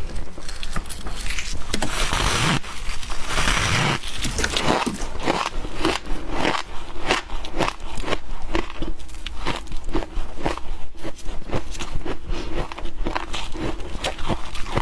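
A person crunching and chewing a mouthful of humidifier ice up close: a fast, irregular run of crisp crunches, with two longer crackling crunches about two and three and a half seconds in.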